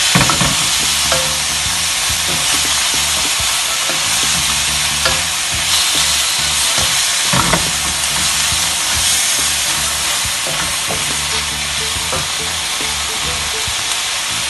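Chopped smoked herring and onion sizzling in a hot pan, with a slotted wooden spatula stirring and scraping through them now and then.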